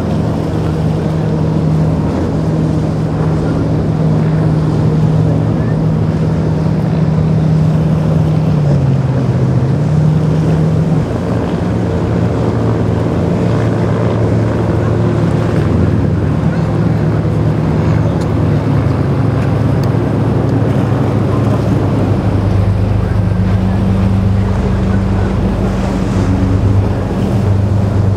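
Boat outboard engines idling nearby with a steady low hum, over wind on the microphone and lapping water. The engine hum dips briefly about nine seconds in and changes to a lower pitch about twenty-two seconds in.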